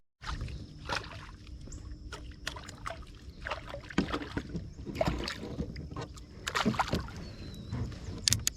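Scattered knocks, clicks and rattles of fishing gear and hands against a kayak during fishing, with no talking.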